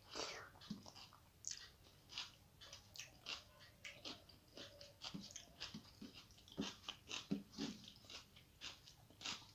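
Close-up chewing of a mouthful of rice eaten by hand, with many small wet mouth clicks and smacks, several a second.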